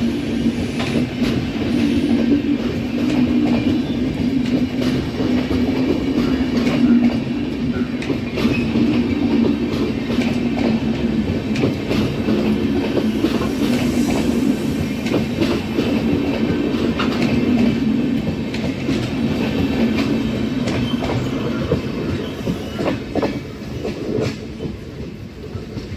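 Red LHB coaches of an Indian Railways express train rolling past, their wheels clicking steadily over rail joints. The sound fades over the last few seconds as the train moves away.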